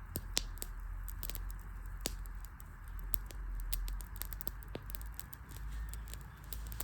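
Wood campfire crackling: irregular sharp snaps and pops from the burning logs over a steady low rumble and hiss.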